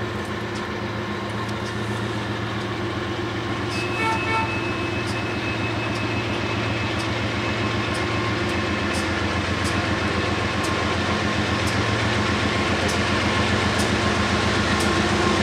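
Diesel locomotives of a BNSF double-stack freight train approaching: a steady low engine drone that grows louder as the train nears, with scattered sharp clicks.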